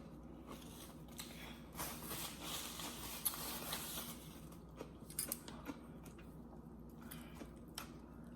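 Faint sounds of a person eating, chewing food with a few light clicks scattered through.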